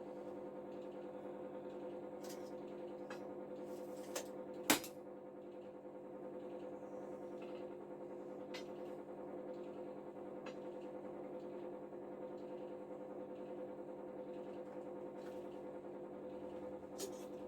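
A steady hum of several held tones, with a few faint clicks and one sharp click about five seconds in.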